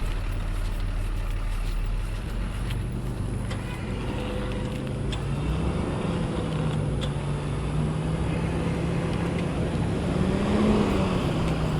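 Box truck's engine running and taking gas, its pitch rising about five seconds in and briefly higher near the end, while the truck fails to move.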